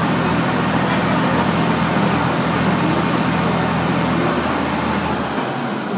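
Diesel railcar heard from inside the coach running through a tunnel: a loud, steady roar of wheels on rail over a low engine drone. The roar falls away about five seconds in as the train comes out of the tunnel.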